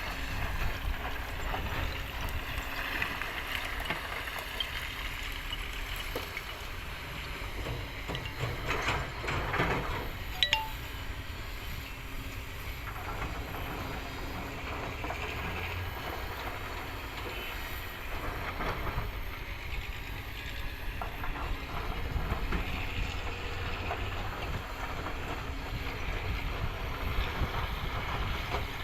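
Kobelco excavator's diesel engine and hydraulics running steadily while it works stone, with a single sharp metallic clink about ten seconds in.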